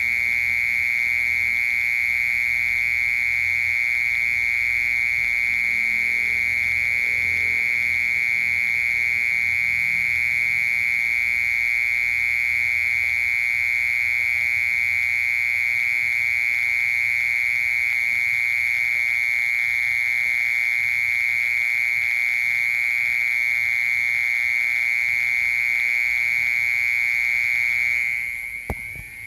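A cricket singing one unbroken, steady trill, fading out near the end.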